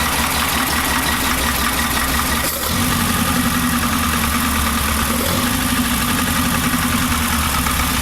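Car engine idling steadily. The engine note shifts briefly about two and a half seconds in.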